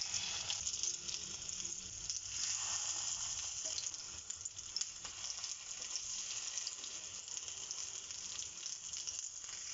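Egg-coated potato cutlets sizzling steadily in shallow oil in a non-stick frying pan over a medium-low flame, with a few light clicks of a fork turning them over.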